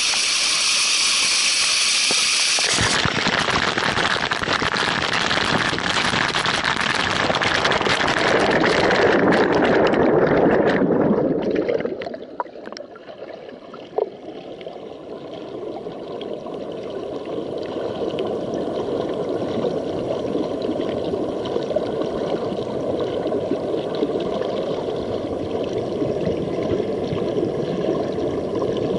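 Rushing water of a mountain river and waterfall, a loud hiss for the first ten seconds or so, then dropping off sharply about twelve seconds in and building back to a steadier rush. A single sharp knock about fourteen seconds in.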